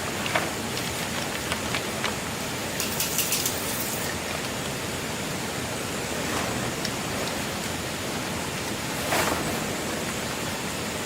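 Steady, even hiss of noise with scattered light clicks and taps: a quick run of ticks about three seconds in and a brief louder swish about nine seconds in.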